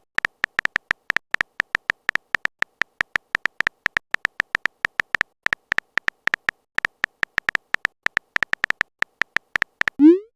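Phone keyboard typing sound effect: a fast, uneven run of short high electronic ticks, about five a second.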